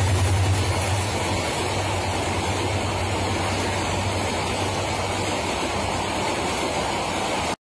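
Passenger train coaches rolling past on the rails, a steady rushing noise. A low hum from the diesel locomotive fades over the first second or so. The sound cuts off suddenly near the end.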